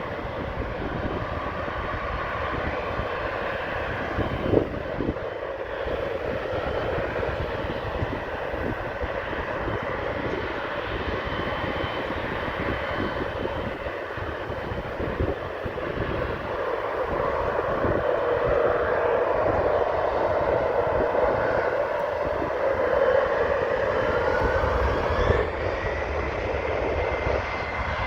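Jet airliner engines running steadily at the departure runway, growing louder in the second half. Near the end a rising whine is heard as the engines spool up for takeoff. Gusty low rumble from wind runs underneath.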